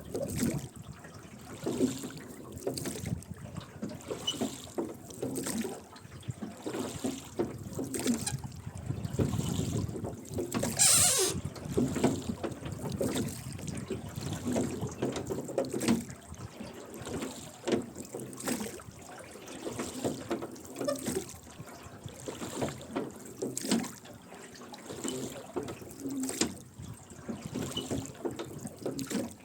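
Rowing boat under oars: the oars dip and pull in a repeated rhythm with splashing and dripping water, the oarlocks creaking on each stroke. One louder splash comes about a third of the way through.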